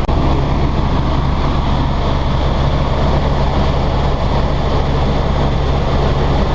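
Tour helicopter in cruise flight heard from inside the cabin: a loud, steady low hum from the rotor and engine under a broad rushing noise.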